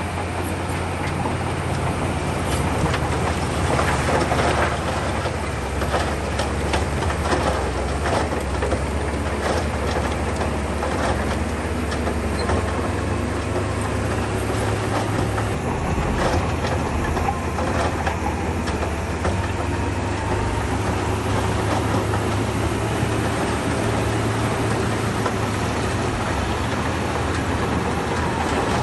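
Shantui crawler bulldozer working: its diesel engine drones steadily while the steel tracks and the pushed stone make repeated clanks and clatters, most busily in the first half.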